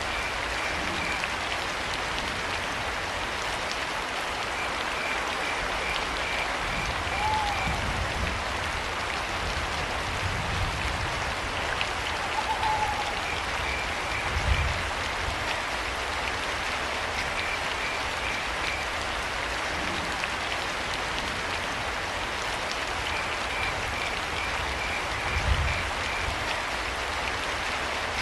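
Steady rain, with crickets chirping in short pulsed runs every few seconds. Two brief calls, about five seconds apart, and a few low thuds stand out.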